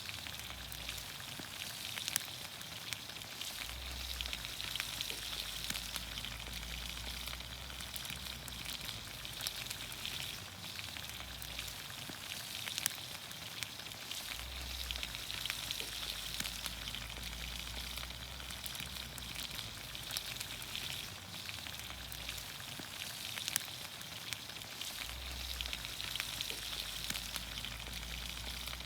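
Vegetables cooking in olive oil in a pan over a campfire: a steady frying sizzle with scattered sharp pops and crackles.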